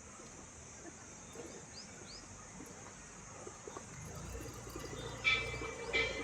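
Birds chirping outdoors over a steady high hiss: two short chirps about two seconds in, then louder chirping calls near the end.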